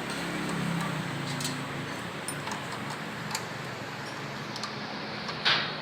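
Light metal clicks and ticks of motorcycle engine parts and tools being handled, scattered over a steady background hiss, with a sharper click near the end.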